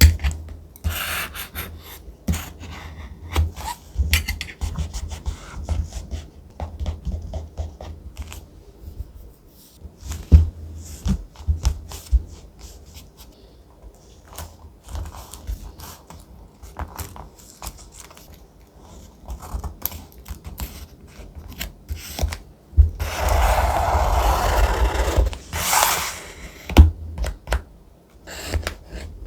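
Thick paper being handled for a collage journal: crinkling, small clicks and dull taps on the desk. About 23 seconds in, a few seconds of continuous rubbing or scraping on the paper.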